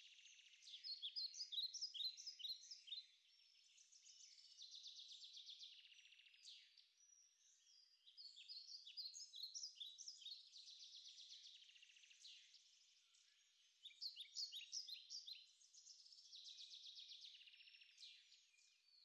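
Faint birdsong: a buzzy trill alternates with a run of short, sharp chirps, and the pattern repeats about every six seconds.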